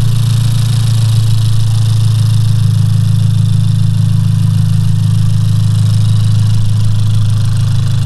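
Freshly built Honda L15B7 1.5-litre turbocharged four-cylinder running steadily in a 10th-gen Civic hatchback: a constant low engine hum with no changes in speed.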